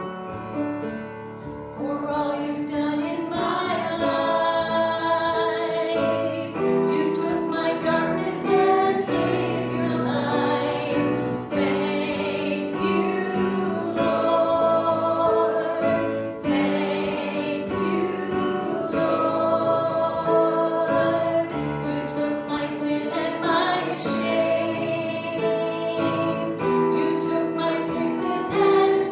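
A congregation or choir singing a hymn with instrumental accompaniment, in slow held notes.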